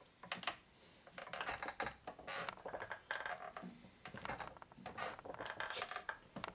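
Irregular light clicks and scrapes of a cylinder hone being handled and adjusted by hand.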